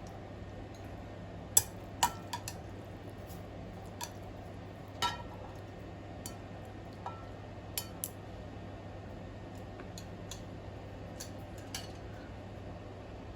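Spoon clicking and clinking against crab shell and a dish: about a dozen separate sharp clicks spread out, the two loudest about one and a half and two seconds in, over a steady low hum.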